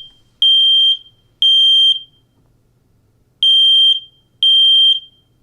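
Smoke alarm going off in its three-beep alarm pattern: high-pitched beeps of about half a second each, three to a group, with a pause of about a second and a half between groups. It is the signal of smoke or fire, telling everyone to get out of the house.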